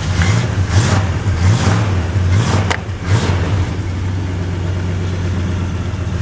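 1974 Dodge engine running just after a cold start in freezing weather, revved unevenly for about the first three seconds, then settling to a steady idle.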